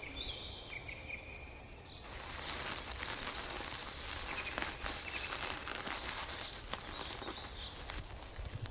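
Rainforest ambience: short bird chirps in the first two seconds, a quick run of ticking notes about two seconds in, then a steady high insect hiss with faint ticks.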